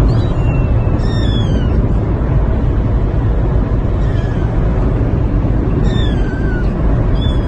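A cat meowing about four times, each call falling in pitch, over a loud steady low rumbling noise.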